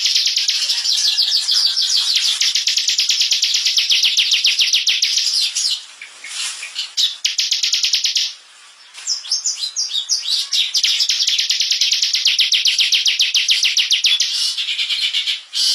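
Bar-winged prinia (ciblek) singing its rapid 'ngebren' song: long, very fast trills of high repeated notes, broken off briefly twice near the middle before running on again.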